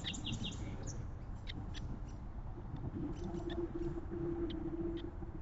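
Small backyard birds at the feeders giving short high chirps: a quick run of them at the start, then single scattered calls. A low steady hum comes in about halfway through.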